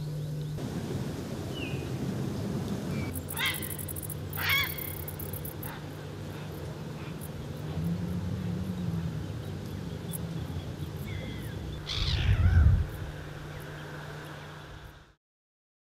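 Outdoor ambience with a steady low hum, over which a few bird calls sound: two short calls about three and a half and four and a half seconds in, and a louder falling call near twelve seconds. The sound cuts off abruptly near the end.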